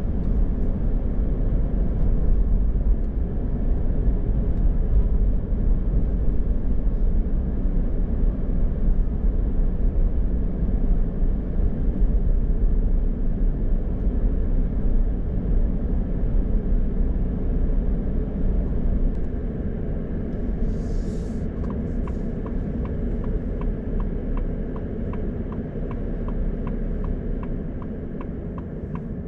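Steady road and engine rumble heard inside a moving car, easing off as the car slows. About two-thirds of the way in a brief hiss sounds, then the turn signal starts ticking evenly, about three ticks a second.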